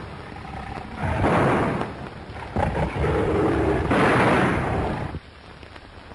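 Lion snarling and roaring in several harsh bursts of about a second each, one drawn out into a longer, rougher growl near the middle.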